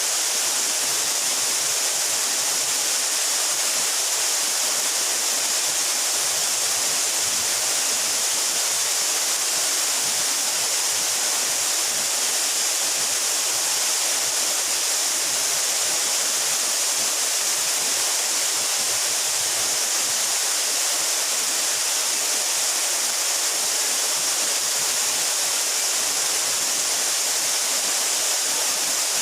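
Waterfall of about 12 metres pouring into a pool: a steady, unbroken rush of falling water, its hiss strongest in the high range.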